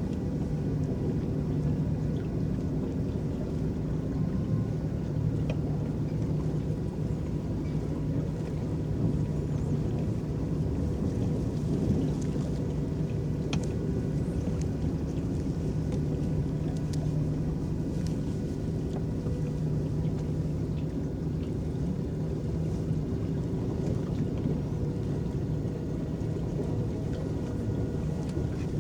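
Electric boat running steadily over the water: an even low hum with a few faint steady high tones, and water washing along the hull.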